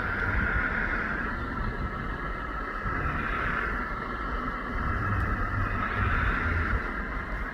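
Engines of a twin-engine Aerostar light aircraft running, heard from a distance as a steady drone that swells and eases, with wind rumbling on the microphone.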